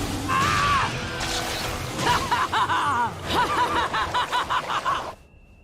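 Anime soundtrack: background music, then from about two seconds in a fast run of high-pitched giggling that cuts off shortly before the end.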